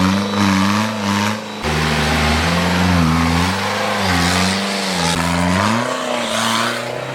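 Off-road vehicle engine revving hard, its pitch rising and falling again and again as the throttle is worked.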